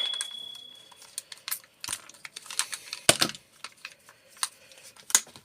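Scattered clicks and knocks of metal microwave parts being handled. A ringing metallic tone dies away over the first second, and two louder knocks fall about two and three seconds in.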